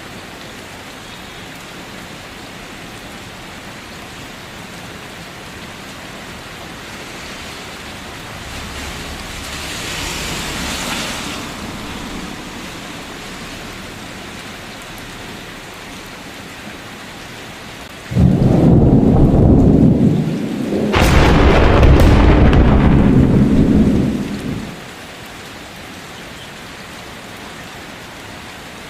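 Steady rain falling, with a soft thunder rumble swelling and fading about a third of the way in. Past the middle a loud thunderclap breaks in suddenly, cracks sharply a couple of seconds later and rumbles for several seconds before dying back to the rain.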